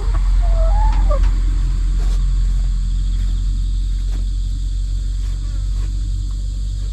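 A loud, steady low rumble, with a short gliding chicken call about a second in and a few light taps.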